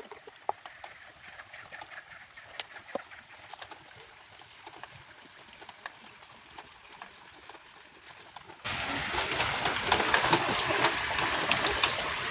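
Homemade reformed gym chalk giving faint, scattered crackles, then about two-thirds in a sudden switch to loud, dense crunching and crackling over a steady rain-like hiss: chalk crushing with rain.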